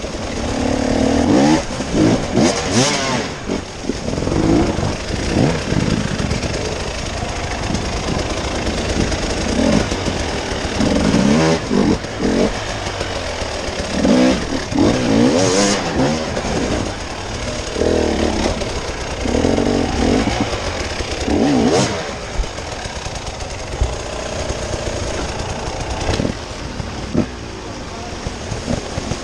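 Off-road vehicle engine revving up and down unevenly on a rough track, with scattered knocks and clatter from the vehicle over the ground.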